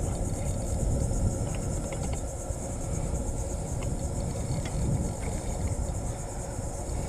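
Low rumble of wind on the microphone under a steady high-pitched insect-like hiss, with a few faint clicks.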